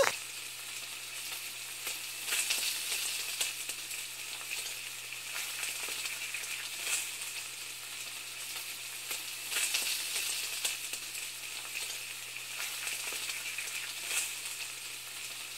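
Food sizzling in a hot pan: a steady frying hiss with scattered crackles and pops.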